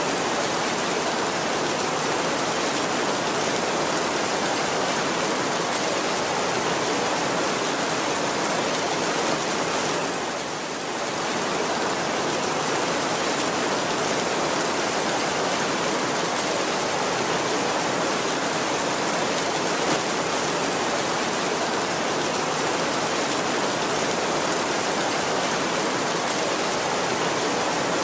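Heavy rain falling steadily on a tin roof, a dense even hiss that eases briefly about ten seconds in.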